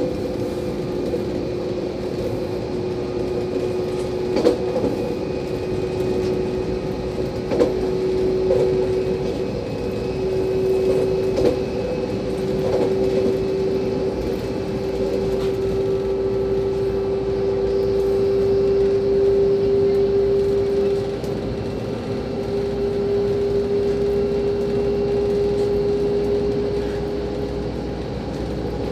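Regional passenger train running at speed, heard from inside the carriage: a steady rolling rumble with a constant hum, and a few short knocks from the wheels and track in the first half.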